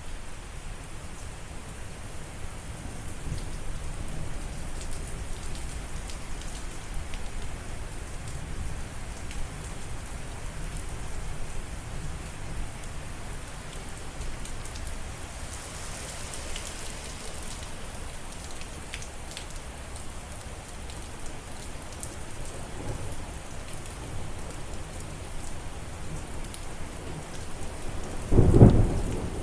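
Steady rain falling, with a low rumble, and a loud clap of thunder near the end.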